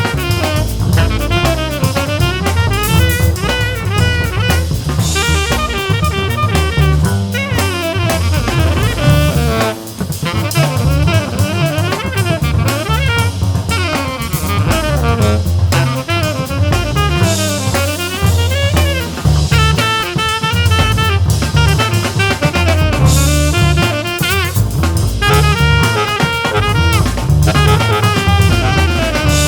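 Instrumental jazz from a small band. A drum kit plays busily on snare and bass drum, with rimshots, under fast melodic runs and a stepping bass line.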